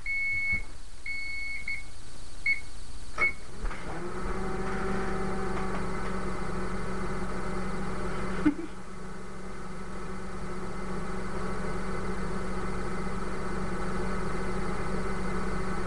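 Microwave oven beeping several times, one short tone after another, then starting up with a click and running with a steady hum, heating a whole egg. One sharp pop or knock about eight and a half seconds in.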